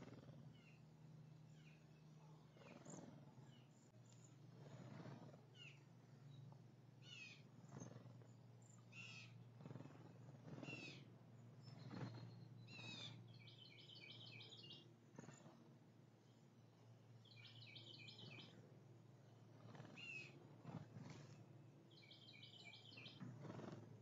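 Faint calls from several birds at a backyard birdbath: many short high chips and whistles, and three bursts of rapid repeated notes in the second half.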